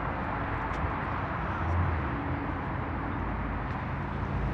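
Steady background noise of car engines running, with a low engine hum rising briefly about a second and a half in.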